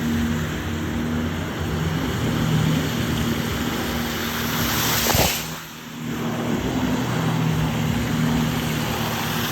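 Car engine running at a steady pitch while driving. About five seconds in there is a sharp click and a brief dip in the sound before the engine note resumes.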